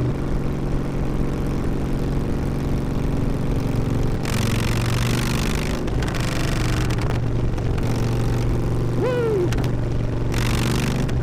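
Harley-Davidson V-twin with a loud aftermarket exhaust running under way, its engine note steady and shifting a couple of times. A rush of noise comes about four seconds in and again near the end, and a short pitched sound rises and falls about nine seconds in.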